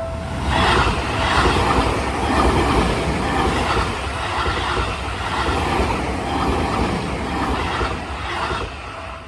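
Seibu 40000 series electric train passing over a level crossing, its wheels clattering over the rail joints in a steady rhythm that fades out near the end. A level-crossing warning bell is ringing as the train arrives.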